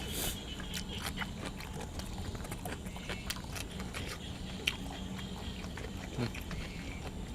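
A person chewing and biting food close to the microphone, with many small irregular clicks and smacks over a steady low hum.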